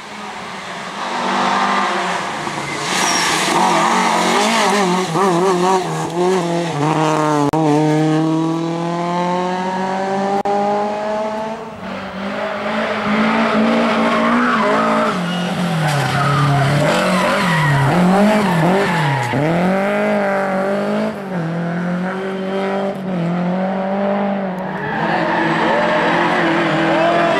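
Lada rally cars' four-cylinder engines revving hard, rising and falling in pitch as they brake and accelerate out of corners, with one long climbing rev about eight to eleven seconds in.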